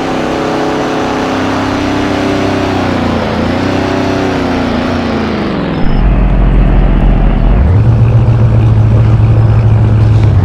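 Car engine under way: its note dips and falls away as it slows. About six seconds in it turns suddenly louder with a deep, steady drone, which then steps up in pitch and holds as the engine revs higher.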